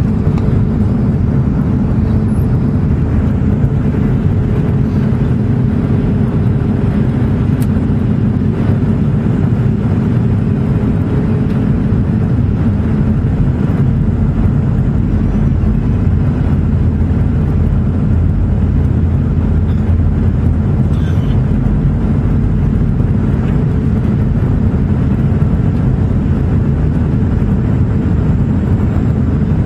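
Steady low rumble of a Boeing 757-200 airliner heard from the passenger cabin: engine noise and rushing air, with a faint tone that slowly drops in pitch over the first dozen seconds.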